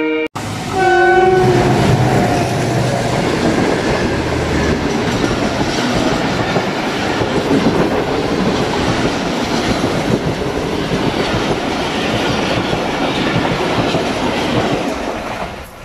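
A train horn sounds briefly about a second in. Then a passenger train runs past close by on the adjacent track, its coaches rattling and its wheels clattering on the rails, loud and steady until it fades near the end.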